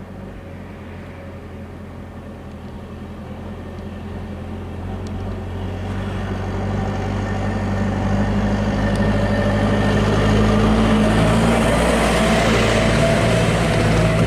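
An engine, growing steadily louder over about ten seconds, then holding steady.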